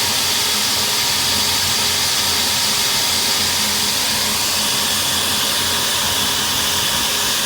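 Water spraying steadily from a hose onto an air-conditioning condenser unit during a wash-down, a constant hiss with a faint low hum underneath.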